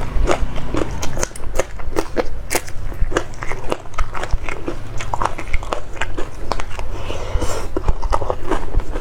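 A person eating crunchy food: sharp, irregular bites and crunches, a few a second, with chewing between them.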